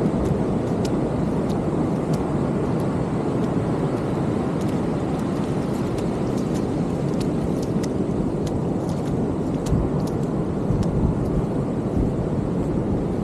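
Steady low rumble of ocean surf breaking, mixed with wind, with faint scattered clicks on top.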